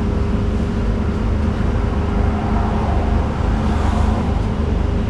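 Scania N250UD double-decker bus's diesel engine running as the bus travels, heard inside the top deck: a steady low drone with a faint steady whine above it.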